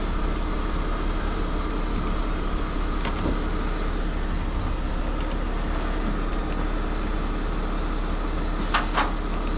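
Heavy diesel truck engine running steadily, the wrecker's motor left running to power its hydraulics during the recovery. A couple of brief sharper sounds come near the end.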